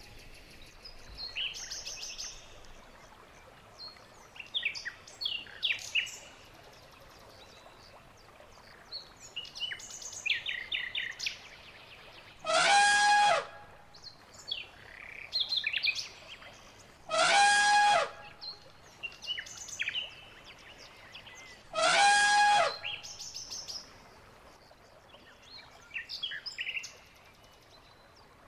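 Birds chirping and twittering in short bursts, broken by three loud, harsh calls, each about a second long and some five seconds apart.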